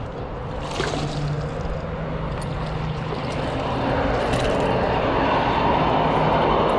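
A steady engine drone that grows louder over the last few seconds, as of a motor passing nearby.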